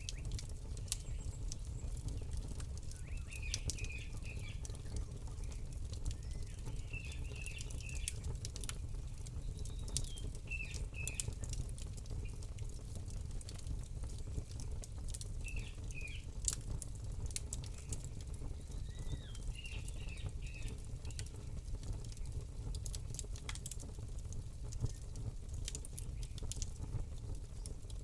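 Campfire crackling, with scattered sharp pops over a steady low rumble, while a small bird chirps in short phrases every few seconds.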